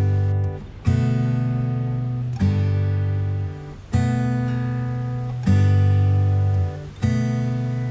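Background music: acoustic guitar strumming slow chords, one about every second and a half, each left to ring and fade.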